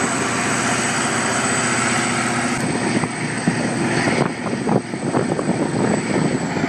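Diesel engine of heavy mining equipment running, a steady drone with a constant high whine; the sound shifts about two and a half seconds in.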